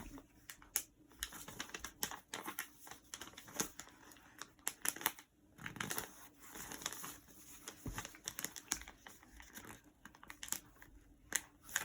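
Sheet of paper being folded and creased by hand: irregular crinkling rustles and sharp crackles as it is handled and pressed into folds.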